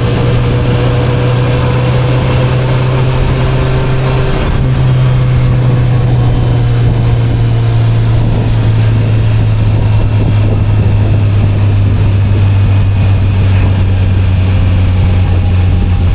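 Kawasaki Z900RS inline-four engine running steadily under way on the open road; the engine note dips briefly about four and a half seconds in, then settles a little lower and holds steady.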